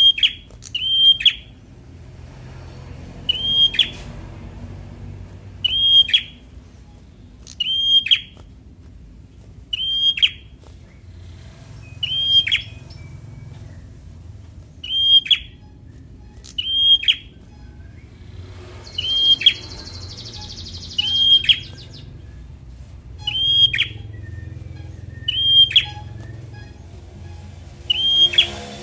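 Prinia (prenjak) calling: one short, sharp, high note with a quick downward tail, repeated evenly about every two seconds.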